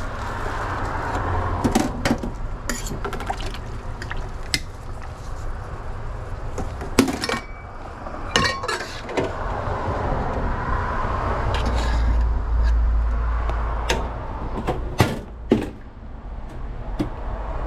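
Utensils, lids and containers clinking and knocking as a hot dog order is put together in a food truck, over a steady background hum.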